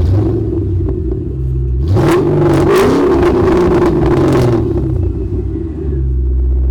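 Car engine running, revved up about two seconds in and held at higher revs for a couple of seconds, then dropping back to a steady low idle.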